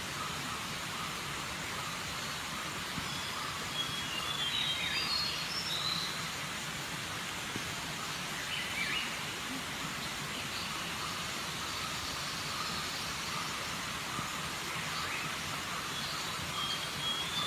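Birds chirping in short high phrases, a few at a time, over a steady outdoor background hiss.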